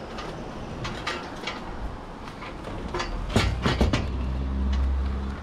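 Scattered clicks and knocks of things being handled, then a low steady engine drone that sets in about three seconds in, with a few louder knocks as it starts.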